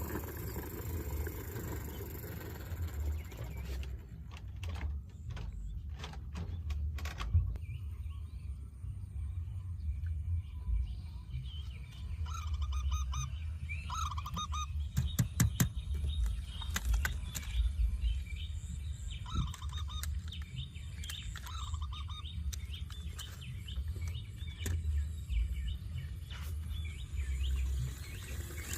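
Birds chirping in short repeated calls over a steady low rumble, with scattered clicks and knocks.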